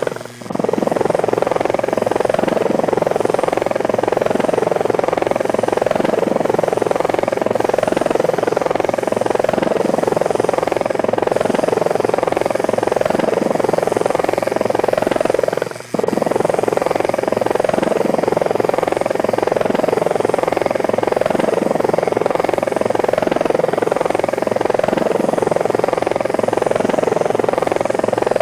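Small remote-controlled rotorcraft's electric rotors buzzing steadily. The sound drops out briefly twice, just after the start and about halfway through.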